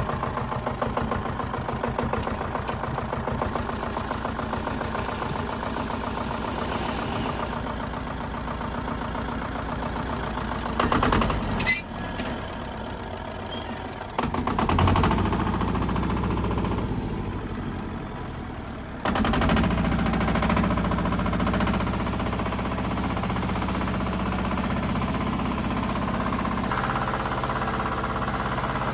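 Diesel engine of heavy earthmoving machinery running and working, its load and pitch changing abruptly several times.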